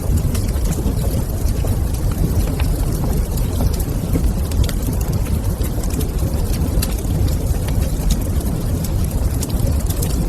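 Wood fire in a fireplace crackling, with irregular sharp pops and ticks over a steady low rumble.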